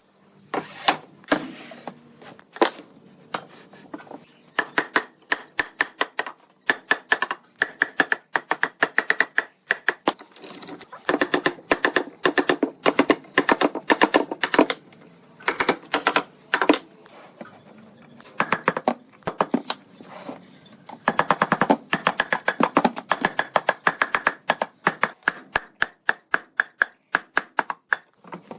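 Rapid runs of sharp taps, many a second, coming in bursts of a few seconds with short pauses between them.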